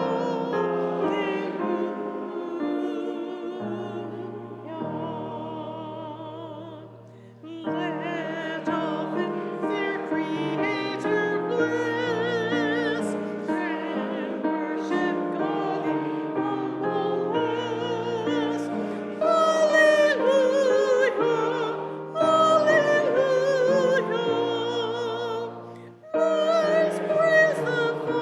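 A small vocal ensemble sings with vibrato, several voices together over sustained low notes, in phrases with short breaks about a quarter of the way in and near the end.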